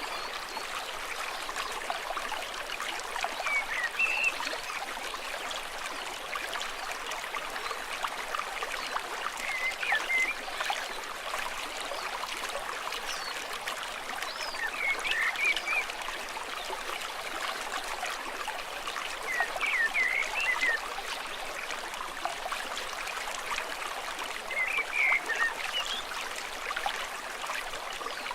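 Small stream trickling and burbling steadily. Short high chirping calls, likely birds, break in about every five seconds.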